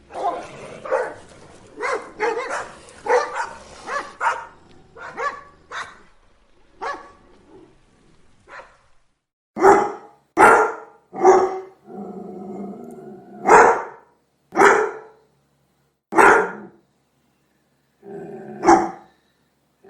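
Angry dog barking: a rapid run of barks that tails off, then louder single barks about a second apart, with a low growl between them near the middle and just before the end.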